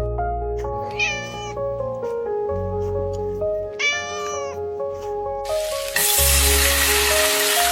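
A cat meowing twice, once about a second in and again about four seconds in, over background music. From about five and a half seconds a steady hiss joins in.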